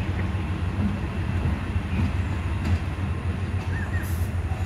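A Sri Lanka Railways train rumbling steadily as it moves away past a level crossing.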